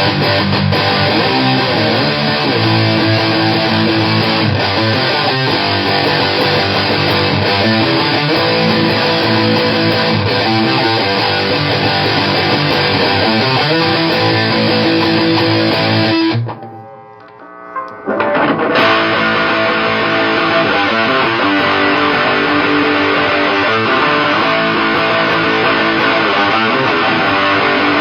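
Electric guitar riffing with heavy fuzz distortion, from a Fuzzimp Shroot driving a Super Cool Pedals 77 Fuzz Blender, through a solid-state amplifier. The sound cuts out suddenly for about two seconds past the middle, then the playing picks up again.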